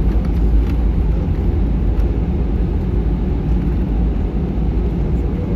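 Steady low rumble of an Airbus A319's engines and airflow heard inside the passenger cabin while the jet taxis before takeoff.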